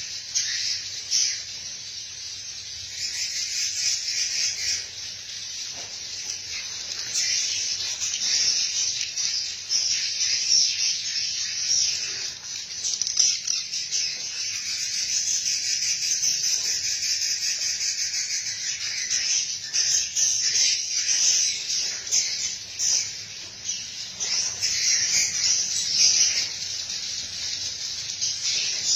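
Swiftlets twittering in a dense, continuous chorus of high chirps.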